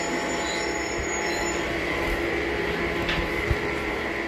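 Sawmill woodworking machinery running steadily: a continuous mechanical noise with a high whine that fades out about a second and a half in, and a light knock near the end.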